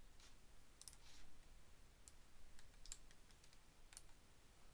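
Faint, scattered clicks at a computer, about eight of them at uneven intervals, over near-silent room tone.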